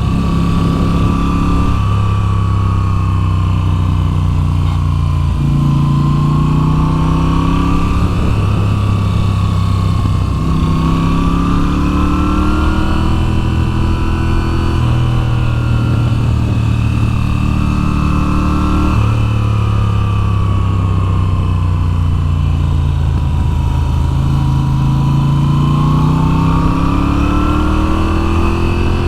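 2022 Moto Guzzi V7's air-cooled V-twin engine running under way, its pitch rising and falling with the throttle and jumping suddenly several times as gears change.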